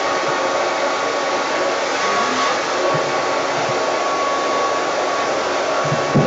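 A hair dryer blows steadily with a thin motor whine, pushing poured acrylic paint across a canvas in a Dutch pour. There is a brief knock near the end.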